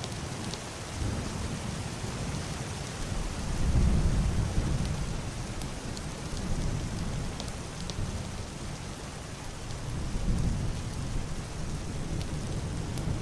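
Heavy rain on a roof and window: a steady hiss with scattered drop ticks. Underneath it, muffled distant thunder rolls in low rumbles, the loudest swelling about four seconds in and another around ten seconds in.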